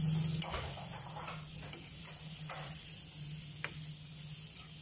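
Small crabs deep-frying in oil in a wok, a steady sizzle, with a few scrapes and clinks of a metal ladle stirring them against the pan.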